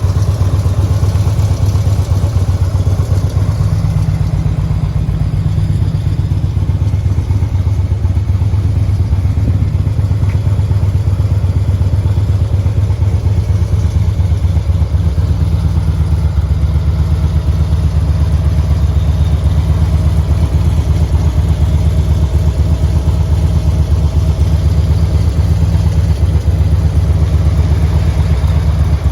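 2006 Harley-Davidson Road Glide's 1450 cc Twin Cam V-twin running steadily at a constant speed through S&S oval mufflers, a deep, even pulsing exhaust.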